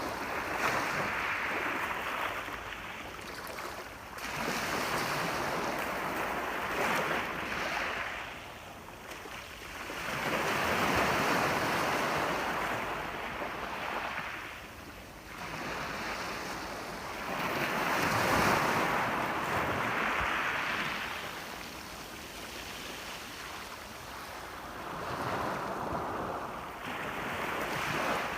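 Sea waves breaking and washing up on a shore, rising and falling in slow surges every few seconds, with the biggest swells about a third and two thirds of the way through.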